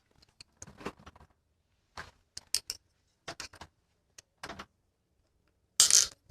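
Scattered metallic clicks and clinks of hand tools and bicycle parts being handled, with a louder clatter near the end.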